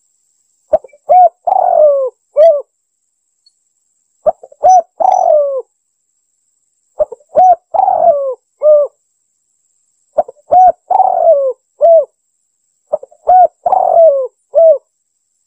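Spotted dove cooing, the same phrase given five times, about every three seconds. Each phrase is a few short coos, then a longer coo that falls in pitch, then a short closing note.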